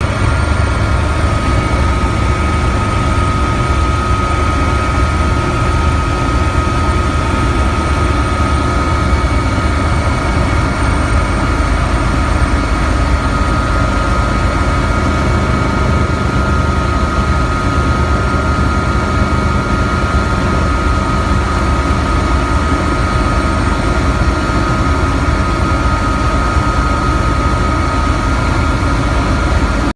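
Steady, unchanging drone of a vehicle's engine and rushing air, with a constant whining tone on top.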